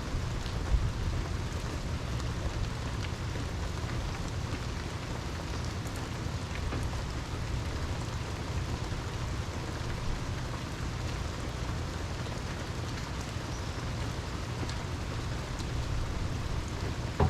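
Steady rain falling, with a low rumble underneath and scattered sharp drips, the loudest about a second in and just before the end.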